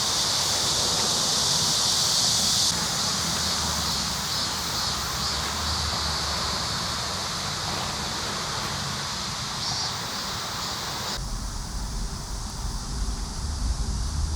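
Steady outdoor ambience with a high insect buzz, crickets or cicadas, over a soft hiss. About eleven seconds in it changes suddenly: the buzz drops away and a low wind rumble on the microphone takes over.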